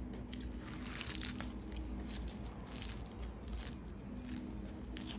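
A person chewing a mouthful of raw baby arugula: crisp leaves crunching in irregular little crackles.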